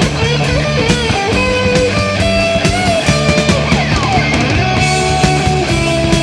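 1980s heavy metal band playing: a distorted electric guitar lead with bent, wavering held notes over bass and pounding drums, and one long falling slide about three and a half seconds in.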